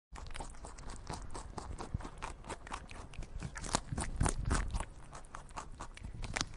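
Red panda chewing bamboo leaves: a steady run of irregular crisp crunches and snaps.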